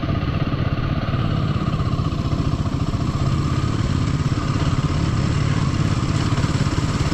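Royal Enfield motorcycle engine running steadily while riding at low speed, with a rapid even pulsing.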